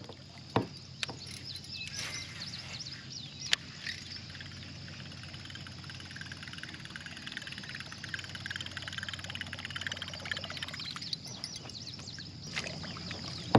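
A pond's morning chorus of frogs and birds, many short chirping calls overlapping throughout, with a few sharp clicks in the first few seconds.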